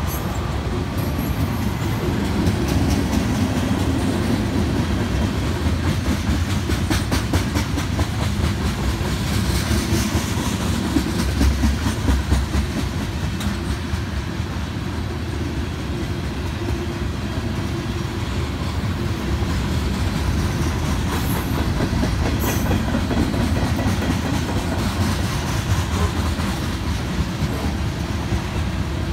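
Freight cars of a mixed freight train rolling past at close range: a steady low rumble of steel wheels on rail, with clicks as the wheels pass over the rail joints.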